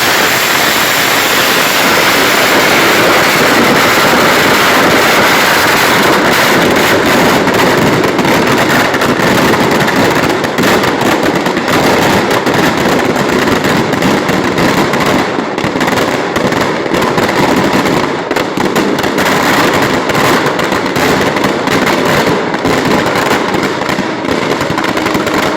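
Dense, continuous crackling of many firecrackers going off in rapid succession. The pops come thicker and sharper from about halfway through.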